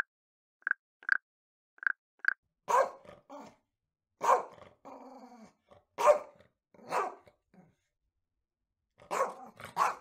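A frog gives four short croaks in two quick pairs. Then a Doberman barks about six times, single loud barks spaced a second or more apart, with a short low growl after the second bark.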